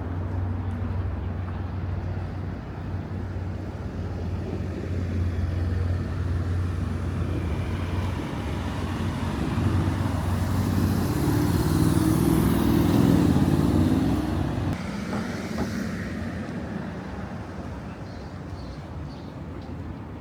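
Street traffic: a motor vehicle's engine running with a steady low hum, growing louder as it passes close about twelve to fourteen seconds in, then fading away.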